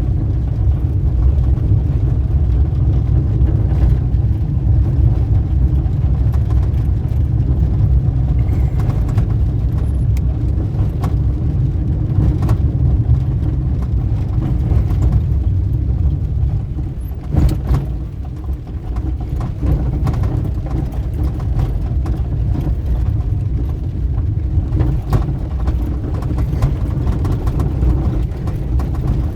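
Car on the move: a steady low rumble of engine and road noise, with a few scattered sharp ticks and a brief lull about two-thirds of the way through.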